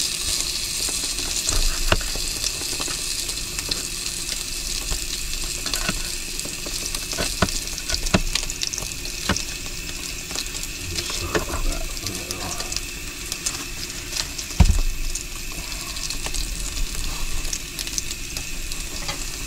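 Bacon and hot dogs sizzling steadily on a portable grill, with scattered light knife taps on a cutting board as onion is chopped, and one louder thump near the three-quarter mark.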